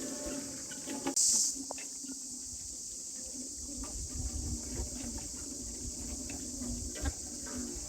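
Steady high-pitched chorus of crickets or similar insects, with a brief louder surge about a second in and a few faint knocks.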